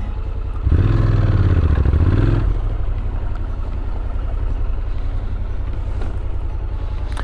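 Motorcycle engine running on the move, a steady low hum, with a louder surge of engine sound with shifting pitch from about a second in until about two and a half seconds.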